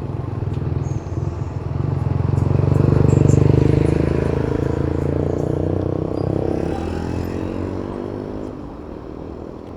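A motor vehicle's engine passes close by in traffic. It grows louder to a peak about three seconds in, then fades away with its pitch dropping slightly.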